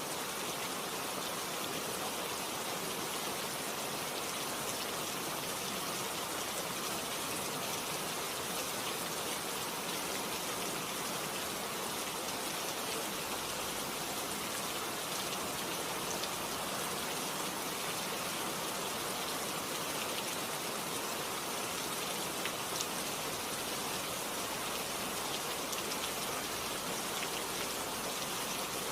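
Steady rain falling, an even hiss of many drops with faint separate drop ticks scattered through it.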